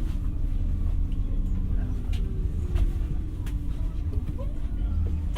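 Interior running sound of an X60 (Alstom Coradia Nordic) electric commuter train: a steady low rumble of the wheels on the rails, with a faint motor whine sliding slowly down in pitch and a few light clicks.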